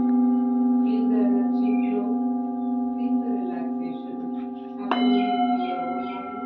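Metal singing bowls ringing with long, steady, layered tones as they slowly fade. About five seconds in another bowl is struck, adding a new set of higher ringing tones.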